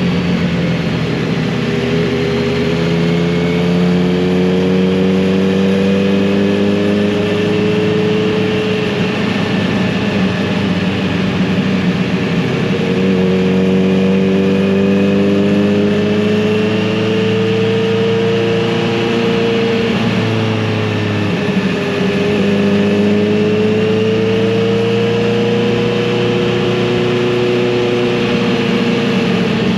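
Kawasaki Z900RS inline-four engine and exhaust under way on the road, its pitch climbing slowly and easing off again with the throttle. About two-thirds of the way through, the pitch briefly dips.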